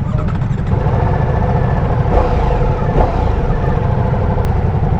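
Ducati Diavel V4's V4 engine running at a steady pitch.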